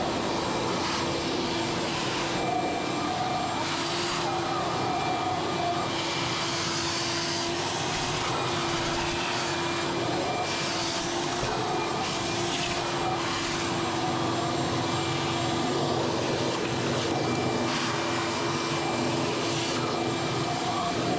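A steady electric motor running continuously with rushing air, the kind of cleaning machine used to move dust, its pitch holding even.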